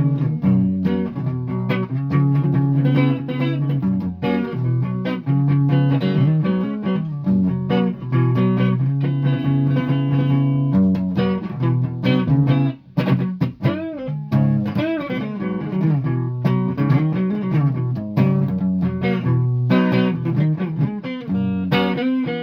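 Guitar being played: a repeating low riff of single notes and chords, with a few bent notes about two thirds of the way through.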